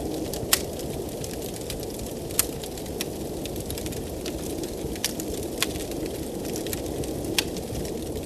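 Wood fire crackling in a fireplace, with sharp pops scattered every second or two, the loudest about half a second in, over a steady low rush of blizzard wind.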